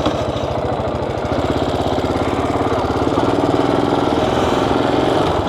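Motorcycle engine running at low speed with an even, rapid firing pulse, getting louder as it picks up about a second in.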